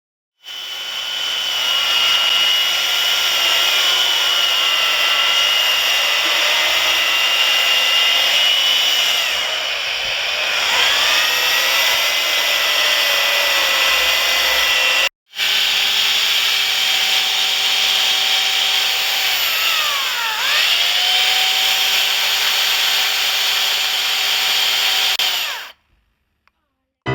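Chainsaw cutting wood, its whine dipping in pitch several times as it bogs under load. It cuts out for an instant about halfway, then runs on and stops shortly before the end.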